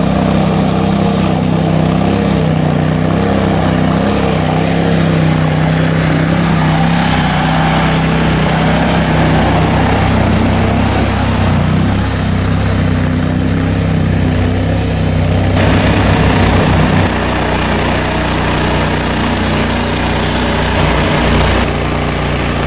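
A vehicle engine running steadily with a loud, even drone; its note shifts twice, around fifteen and seventeen seconds in.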